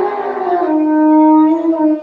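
One long, steady animal call, held on one pitch and sagging lower near its end.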